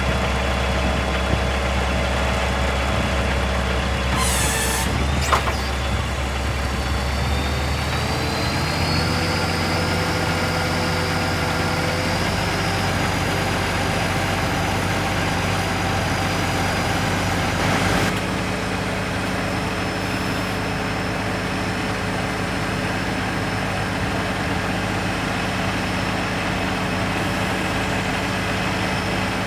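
Scania R480 truck's 13-litre six-cylinder diesel idling steadily. About four seconds in there is a short burst of hiss, like air being released. Around eight seconds in the engine speed rises to a slightly higher steady idle with a climbing whine, and a brief sharp sound comes at about eighteen seconds.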